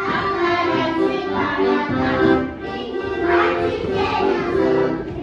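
Children singing to accordion music.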